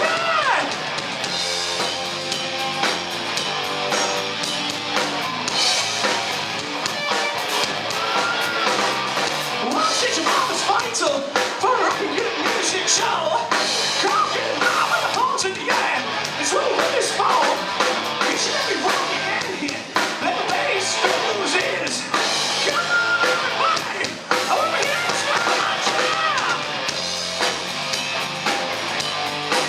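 Live rock band playing: drum kit and electric guitar, with a bending, wavering lead line over the top, as in an instrumental break.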